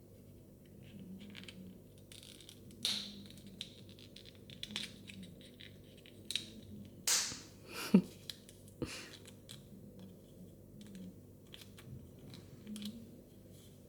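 Small plastic toy pieces and their packaging being handled close up: scattered crinkling, scratching and sharp little clicks, the loudest click about eight seconds in.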